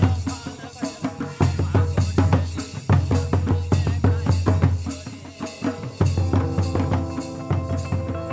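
Tribal drums playing a fast dance rhythm for the Pata dance, a deep drum under quicker, sharper strokes. The drumming eases briefly about five seconds in, then picks up again.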